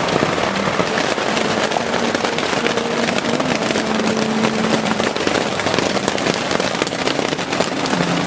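Torrential rain pelting a plastic tarp shelter, a steady loud crackle of countless drops hitting the sheeting, like a waterfall on the ear.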